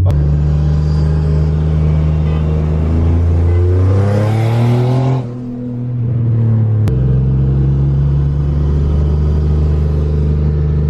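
Car engine cruising with a steady low drone, then revving up under acceleration, its pitch rising for about two seconds. About halfway through it drops off suddenly as the throttle is lifted, and a second or so later it settles back into a steady cruising drone.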